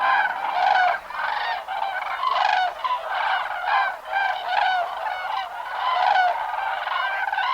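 A flock of cranes calling: many overlapping trumpeting calls, several a second, with no let-up.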